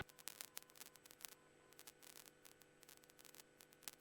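Near silence on the cockpit audio feed: faint crackling static with scattered small clicks over a faint steady hum.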